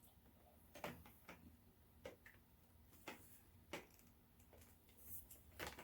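Faint, scattered clicks and taps of plastic cordless-vacuum parts being handled and fitted together, about eight in all at irregular intervals.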